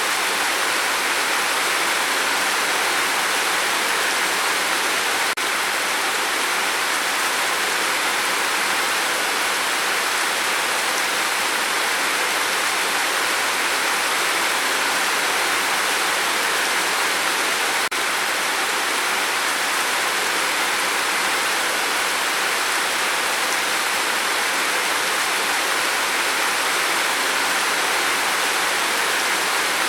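Gentle rain falling steadily: an even hiss without separate drops standing out.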